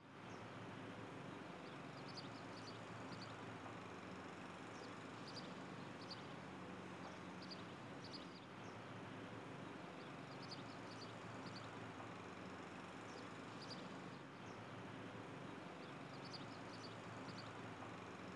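Small birds chirping in short high calls, every second or so, over a faint steady low hum and hiss.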